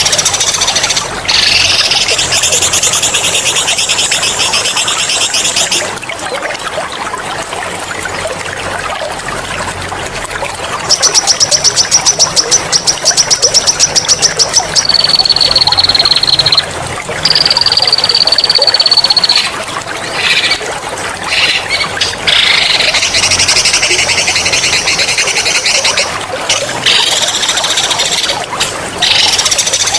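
Songbirds singing loud, sharp rolling trills over a steady trickle of water. Buzzy trills open and close the stretch; in the middle come a fast series of sharp notes and then two long high whistles.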